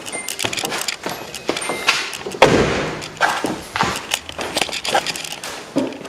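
Nissan 240SX hood being released and lifted: a run of clicks and metal knocks, with a louder thud about two and a half seconds in.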